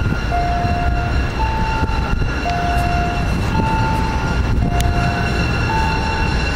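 MBTA Commuter Rail diesel train approaching the platform, its engine a steady low rumble. Over it a two-note electronic warning tone alternates low and high, about one pair every two seconds.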